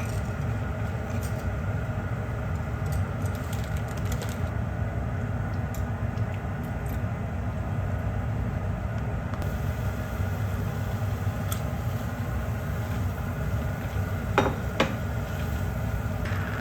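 Steady low mechanical rumble, like a running engine or machine, with two brief clicks near the end.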